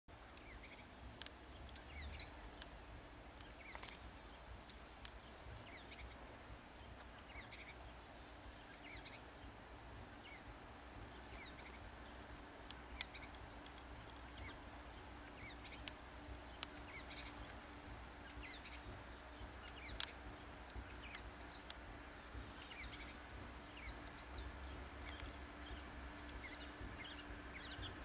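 Gray catbird calling: short, high chirping notes scattered throughout, with a louder flurry of quick high notes about two seconds in and again about halfway through.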